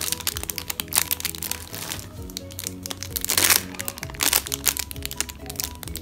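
Background music with a light melody over the crinkling and crackling of squishy toys being squeezed and handled, with many sharp clicks and a louder rustle about three and a half seconds in.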